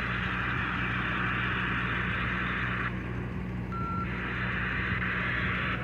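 A fire truck's diesel engine idles steadily under a loud, even hiss. The hiss drops out about three seconds in for about a second, and a short high beep sounds during the gap.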